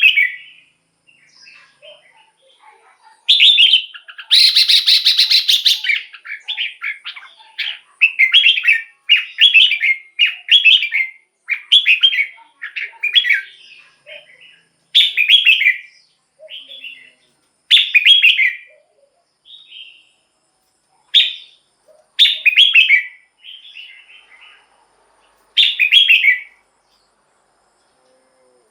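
Red-whiskered bulbul singing: short bright whistled phrases repeated about once a second, with a longer, harsher buzzy stretch about four seconds in.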